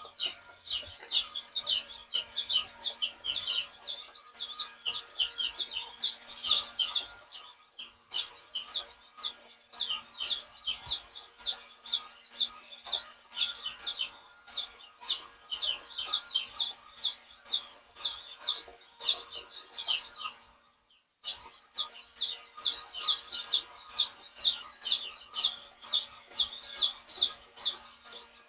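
Young chicks peeping: a rapid, continuous string of high, shrill peeps, several a second, with two short pauses.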